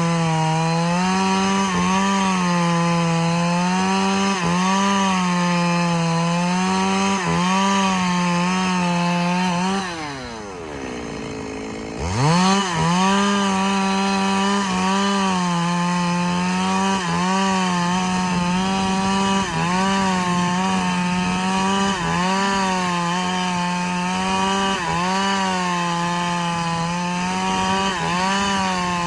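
Two-stroke chainsaw cutting through a large log, its engine pitch wavering as the chain bites into the wood. About ten seconds in it drops back toward idle for a couple of seconds, then revs sharply back up and carries on cutting.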